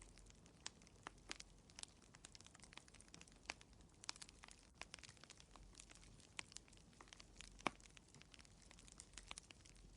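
Wood fire crackling in a fireplace: faint, irregular snaps and pops, one louder pop about three-quarters of the way through.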